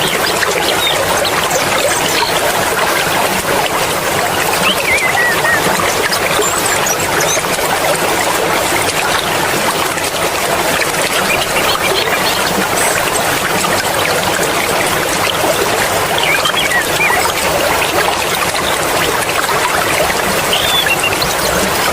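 Mountain stream water flowing steadily, a continuous even splashing with no pauses, with a few faint short chirps here and there.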